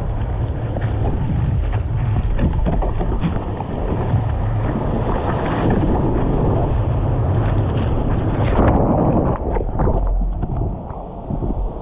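Wind buffeting the microphone over splashing, rushing water, with a continuous low rumble and scattered splashes.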